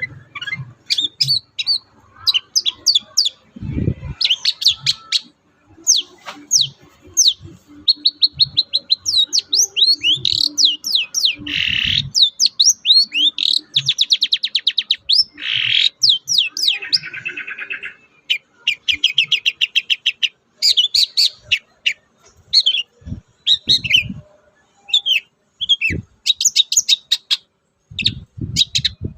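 Long-tailed shrike (cendet) singing a fast, chattering song: quick runs of sharp high notes and trills broken by a few harsh, raspy calls, with occasional dull low knocks underneath.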